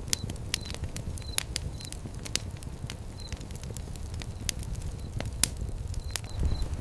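Wood fire crackling, with irregular sharp pops and snaps over a steady low rumble of the flames. A short high chirp repeats evenly near the start and again near the end.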